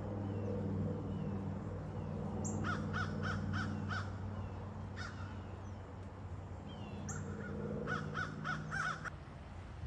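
Crows cawing in two quick runs of four or five caws, one about three seconds in and another near the end, with a single caw between, over a steady low hum.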